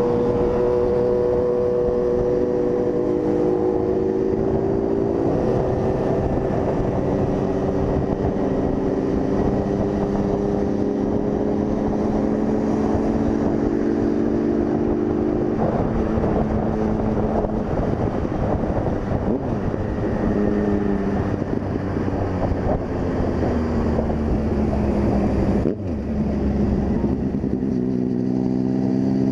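Honda CG 160 Fan single-cylinder four-stroke motorcycle engine running while riding, heard over wind and road noise. Its note holds, then falls and rises in steps as throttle and gear change, with a brief break in the sound near the end.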